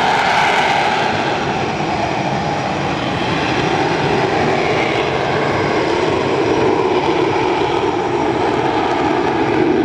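AV-8B Harrier's Rolls-Royce Pegasus turbofan running loud and steady, the main band of its jet noise sliding lower over several seconds.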